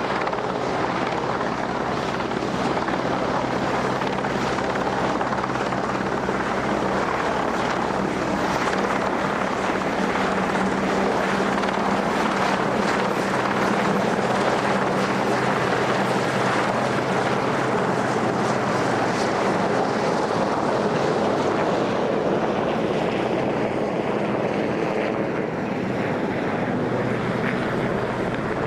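RAF Westland Sea King search-and-rescue helicopter running steadily close by, the rotor and twin turboshaft engines making a continuous, even noise with a steady low hum.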